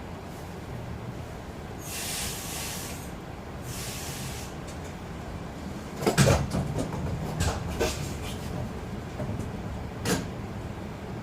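RABe 514 double-deck electric train: two short hisses of air, then a clatter of sharp knocks about six seconds in and a single knock near the end, over a steady low rumble.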